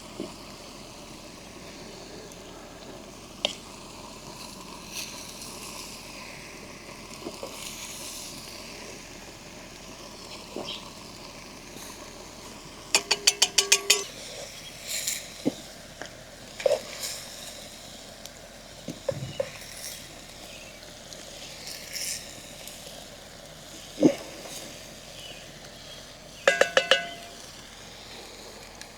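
Utensils clinking and tapping against cookware and dishes over a steady background hiss, with a quick run of ringing metallic clinks midway and another near the end.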